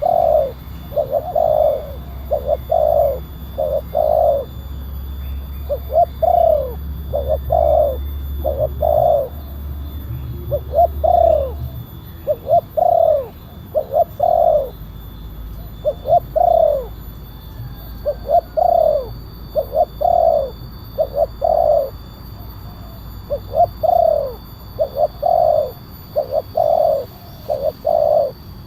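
Spotted dove (tekukur) cooing over and over: short phrases of a few low notes, each note falling slightly in pitch, repeated every second or two. A loud caller-type recording of the kind used to lure wild spotted doves.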